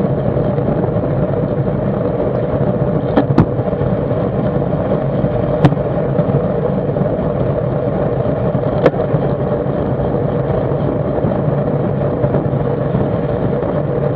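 Steady rush of wind and road noise on the microphone of a camera mounted on a racing bicycle in motion, with a few sharp clicks about 3, 6 and 9 seconds in.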